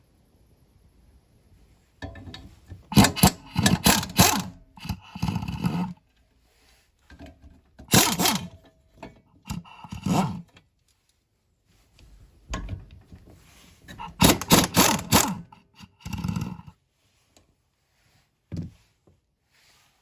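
Hand tools and metal parts clanking, knocking and scraping in irregular bursts during repair work on a lawnmower, with several louder clusters of clatter and a single knock near the end.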